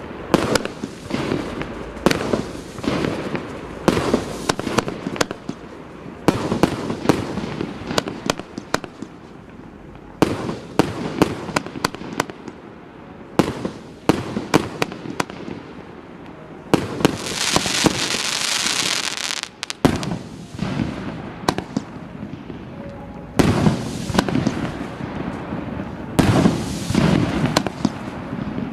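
Asgard SU 05-76 multi-shot fireworks cake firing a rapid string of shots: launch thumps and sharp bursting reports in quick succession, with a dense hiss lasting about two seconds a little past the middle.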